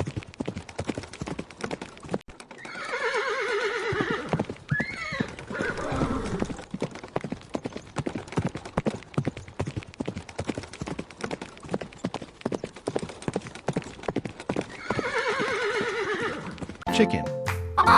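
Horse hooves clip-clopping at a quick, steady pace, with a horse whinnying about two and a half seconds in, again about five seconds in, and once more near the end.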